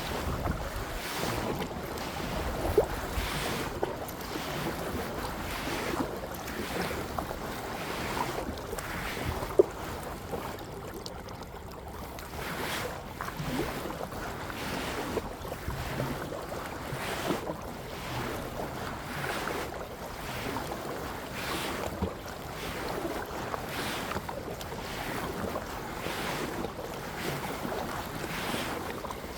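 Kayak paddle strokes splashing in the water, about one a second, with wind noise on the microphone and a couple of sharp knocks.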